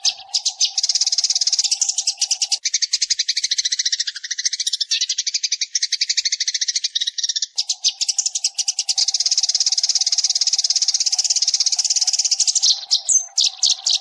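Sparrow giving a long, rapid run of chirps and chatter, a decoy call recording played to lure sparrows. A faint steady hum runs beneath it, dropping out between about two and a half and seven and a half seconds in.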